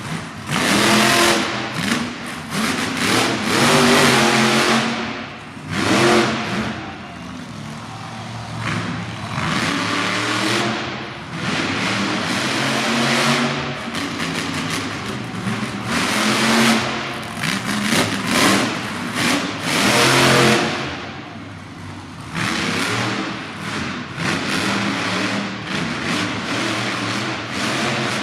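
Monster truck's supercharged V8 engine revving hard in repeated bursts, the pitch climbing and dropping again every few seconds.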